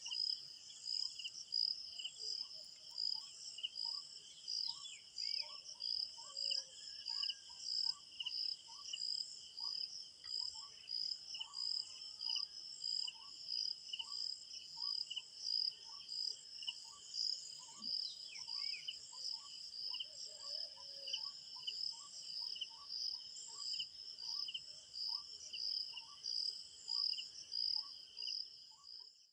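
Crickets chirping steadily in a fast pulsing trill, with a second, lower chirp repeating about one and a half times a second. A few faint bird calls come in now and then.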